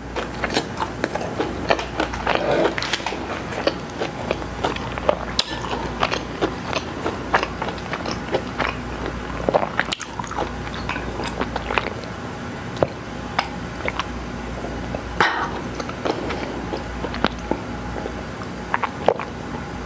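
Close-miked eating sounds: a person chewing and biting food, with many short wet mouth clicks and smacks. Partway through she drinks water from a glass.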